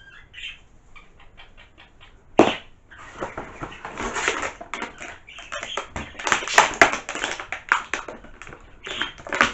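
Plastic wrapping crinkling and crackling as it is handled: a sharp crackle about two and a half seconds in, then a long run of quick, irregular crackles.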